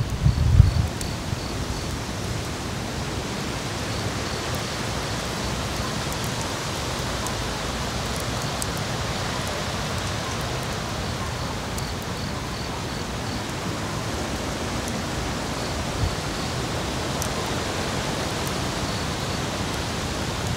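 Steady rushing noise, with a few low thumps at the very start and faint short runs of evenly spaced high peeps.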